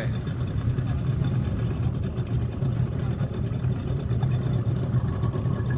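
Boat engine running steadily with the boat under way.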